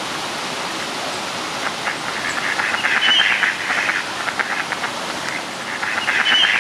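Green tomato slices frying in a pan of hot oil: a steady sizzle with crackling that swells twice.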